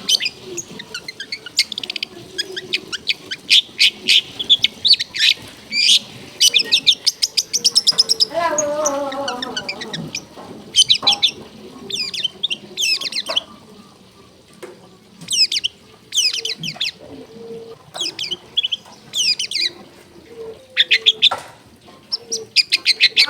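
Long-tailed shrike singing: fast strings of high, chattering notes and trills in bursts with short pauses. A lower, falling call comes about eight and a half seconds in.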